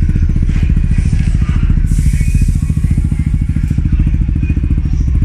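A car engine idling loudly with a rapid, uneven train of exhaust pulses. A hiss rises over it about two seconds in and stops about a second and a half later.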